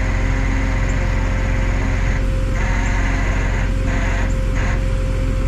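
A tow truck's engine running steadily, with a constant high whine over the rumble, during a winch recovery.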